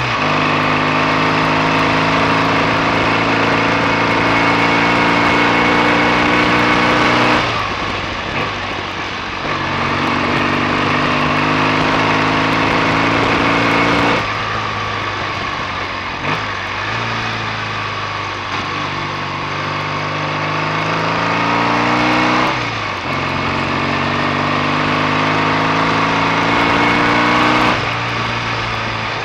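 BSA A65 650 cc parallel-twin motorcycle engine under way. Its revs climb slowly, then fall away sharply four times, with a rush of wind noise throughout.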